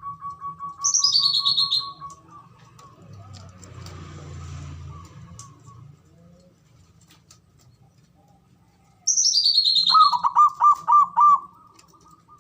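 Zebra dove (perkutut) calling: a fast trill of short notes fades out about two seconds in, then near the end comes a loud run of about six stuttering coo notes. Twice, about a second in and again just before the coo run, a high, falling chirp sweeps down above it.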